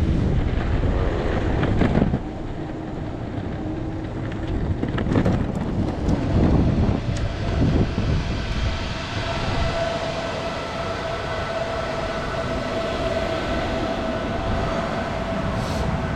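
Riding an electric skateboard: wind buffets the microphone and the wheels rumble steadily over the pavement, the wind heaviest in the first two seconds. A faint steady whine joins about nine seconds in.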